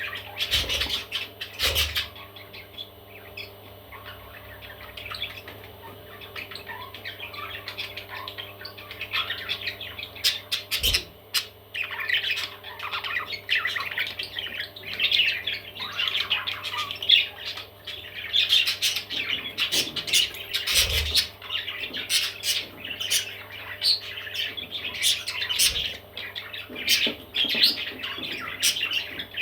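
Baby parrots squawking and chirping in many short, rapid calls that grow busier about halfway through. A few sharp knocks sound among them.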